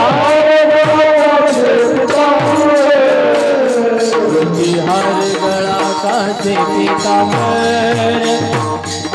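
Devotional kirtan bhajan music: a singer holds a long, ornamented note that fades out about four seconds in. Under it, held accompaniment tones and a drum with hand cymbals keep an even beat.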